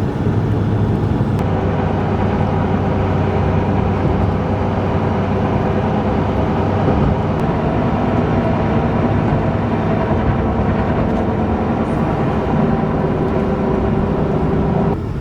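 A vehicle driving at a steady speed: a constant engine hum and road noise, heard from inside the cab.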